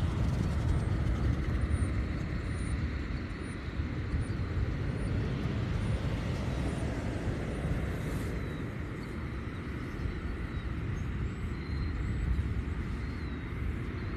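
Steady outdoor background noise: a continuous low rumbling haze with no distinct events, like distant traffic or wind on the microphone.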